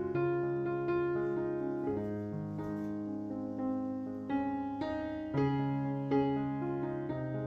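Soft background piano music, slow notes and chords struck about once a second.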